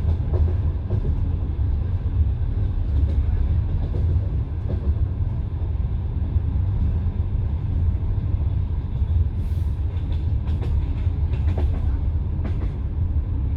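Passenger train running on the line, heard from inside a carriage: a steady low rumble of wheels on rails, with a few sharp clicks and knocks in the last few seconds.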